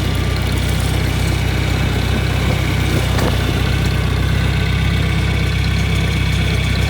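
Farm tractor engine running steadily at a constant speed while towing a cultivator on the road.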